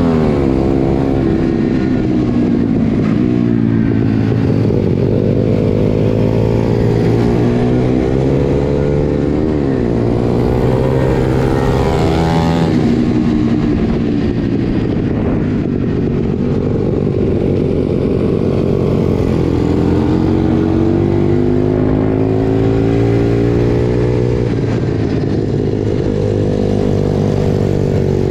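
Pit bike engine running hard, its pitch repeatedly climbing under throttle and then dropping back, over and over.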